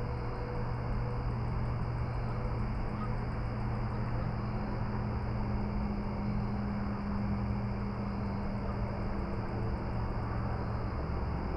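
Steady rushing noise with a constant low hum, like a running engine, unchanging throughout.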